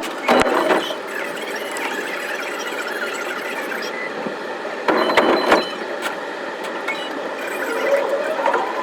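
Sound of an electric commuter train running, sped up so that its noise turns into high wavering squeals. Twice there is a short loud clatter, and near the end a tone rises in pitch.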